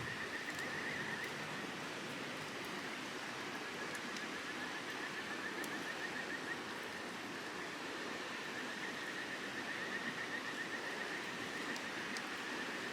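Campfire ambience: a wood fire burning with a few faint crackles over a steady rushing background. A rapid, high trill runs through most of it.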